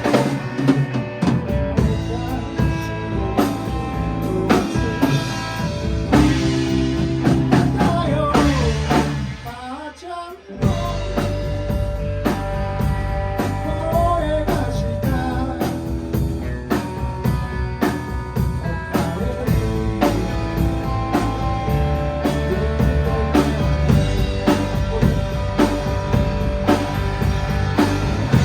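Band playing a rock/blues number with drum kit, guitar and bass. About ten seconds in, the bass and drums drop out for a moment, then the full band comes back in.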